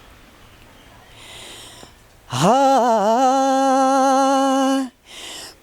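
A man singing unaccompanied: after a quiet breath in, he holds one long vowel note about halfway through, wavering at its start and then steady, and takes another breath near the end.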